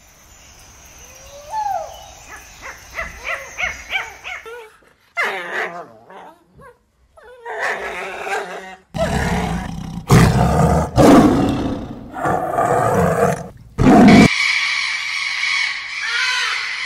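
A run of different animal calls. It opens with faint chirping calls at about three a second from ring-tailed lemurs. A loud, low growling roar lasts about five seconds in the middle, and a rainbow lorikeet screeches near the end.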